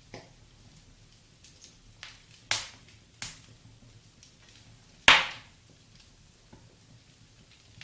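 Wood fire in a fireplace crackling, with sharp pops: a few small crackles, two louder pops about two and a half and three seconds in, and the loudest pop about five seconds in.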